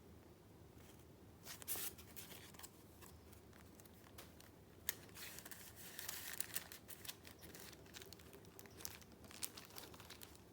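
Paper being handled: crinkling and a brief tear-like rasp about two seconds in, then a longer rustle around the middle, among small taps and clicks.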